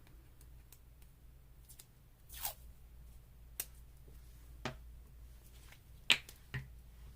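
Paper and small crafting tools handled on a tabletop: a short paper rustle about two and a half seconds in, then a few sharp isolated clicks and taps, the loudest about six seconds in.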